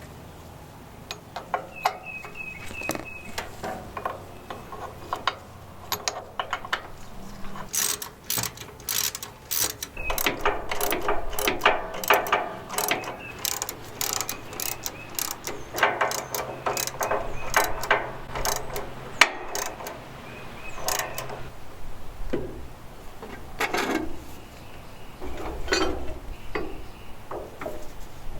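Hand tools working on metal tractor drivetrain parts: irregular runs of clicks and metallic clinks.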